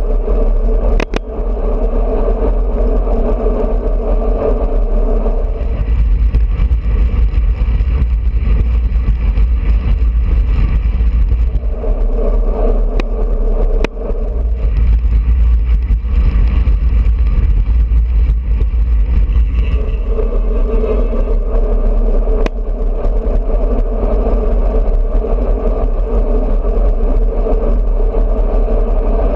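Wind rushing over a GoPro's microphone on a moving road bicycle, with tyre and road noise, and a few sharp clicks.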